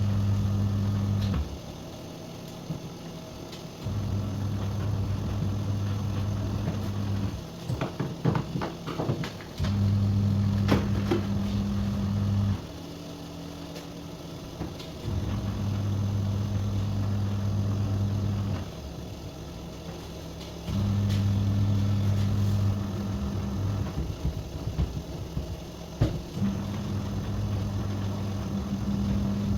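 Washing machine motor humming in repeated spells of about three to four seconds, each followed by a pause of about two seconds. There are some clattering clicks near the middle.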